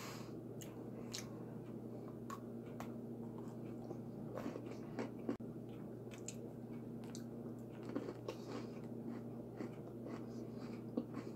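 A person chewing a bite of an Ultimate Chocolate Oreo sandwich cookie with the mouth closed: faint, scattered crunches and mouth clicks, over a low steady hum.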